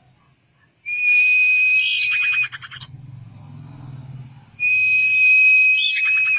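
Common iora calls: two long whistles held on one pitch, each about a second and a half, and each ending in a quick rattling run of short notes. The calls are used as a lure to set a caged bird singing.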